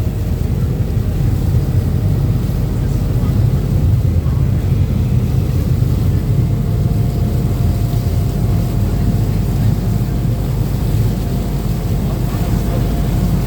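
Passenger river-bus catamaran underway at speed: a steady, loud engine rumble mixed with the rush of water.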